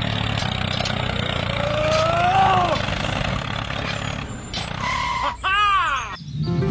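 A steady low engine hum. About two seconds in there is a rising-then-falling call, and near the end a cry with several tones that arches and falls, then cuts off.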